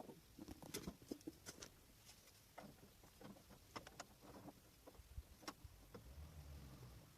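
Near silence with scattered faint, irregular clicks and light taps, and a faint low rumble near the end.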